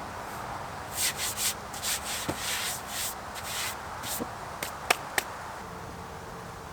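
A quick run of rubbing, scraping strokes for about three seconds, followed by two sharp clicks.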